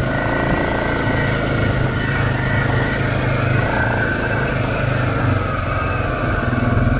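Off-road vehicle engine running steadily through mud, its pitch shifting slightly about halfway through.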